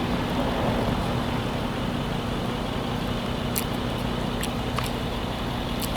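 Steady low hum of a running vehicle engine, with a few faint clicks in the middle.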